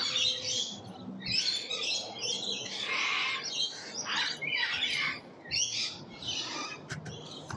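Wild birds outdoors calling and chirping over and over in short, harsh, squawky bursts.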